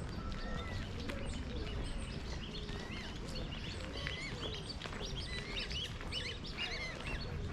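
Birds chirping: many short, quick calls overlapping, growing busier after a couple of seconds, over a steady low rumble of wind on the microphone.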